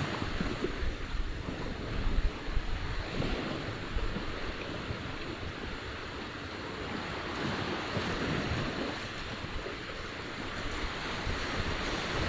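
Sea waves washing onto the shore in slow swells, with a low rumble of wind on the microphone.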